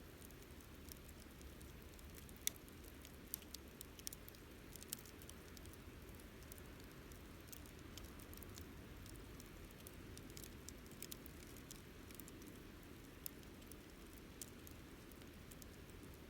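Wood campfire crackling: irregular small pops and snaps over a faint low hiss, with one louder snap about two and a half seconds in.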